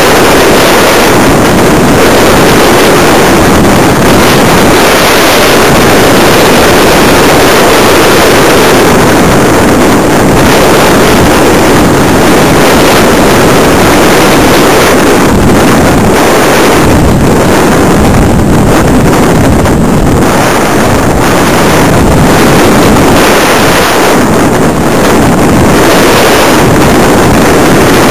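Loud, steady rush of airflow over the microphone of a camera riding on a flying RC electric glider, with no motor whine, so the glider is gliding unpowered. A thin high whistle sits steadily underneath.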